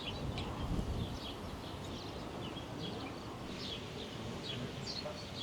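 Small birds chirping, many short high calls in quick succession over a steady low background rumble.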